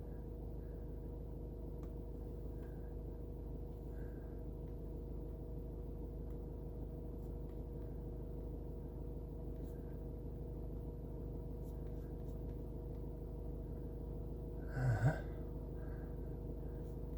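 Steady low mechanical hum made of several steady tones. About fifteen seconds in there is a brief breathy vocal sound, like a gasp or a grunt.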